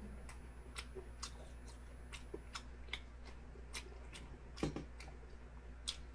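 Faint chewing of a mouthful of mala xiang guo, with small irregular wet clicks and smacks. One stronger smack comes about two-thirds of the way through.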